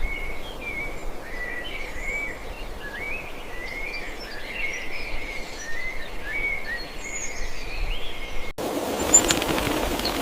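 Small birds chirping and twittering in quick, rising and falling notes over a faint hiss. About eight and a half seconds in, the sound cuts abruptly to a louder rushing noise with a few clicks.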